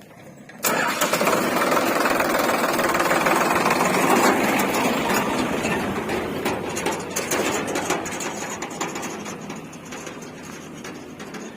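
Heavy diesel engine running hard under load with a dense knocking clatter. It starts suddenly about half a second in and slowly eases off in the second half.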